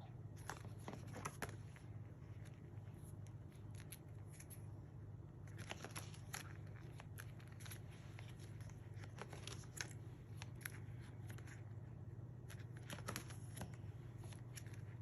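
Pages of a scrapbook album being turned and handled, heard as four clusters of small sharp paper-and-plastic sounds, over a steady low hum.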